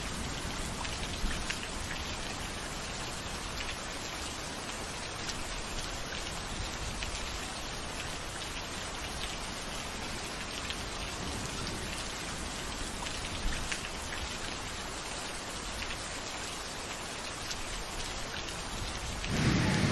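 Steady rain falling and pattering on wet ground, with a few louder single drops.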